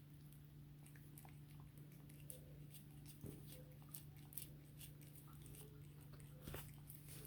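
Cat chewing and gnawing on a raw chicken back, faint scattered crunches and clicks of teeth on meat and bone over a steady low hum.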